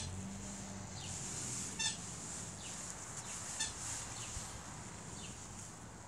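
Birds calling: short falling chirps repeated about once a second, with two brief buzzy calls about two and three and a half seconds in, over a steady high hiss.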